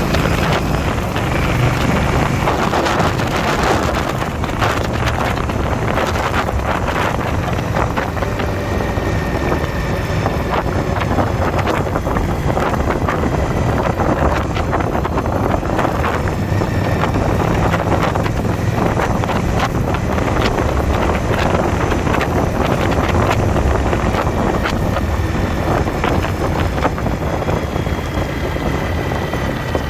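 Indian V-twin motorcycle running steadily at road speed, its engine hum under heavy wind rush on the microphone.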